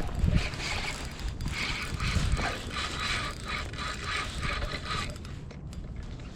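Fishing reel's mechanism clicking in rhythmic bursts, several a second, as a hooked smallmouth bass is fought and reeled in; it stops about five seconds in. A steady low rush of wind on the microphone runs underneath.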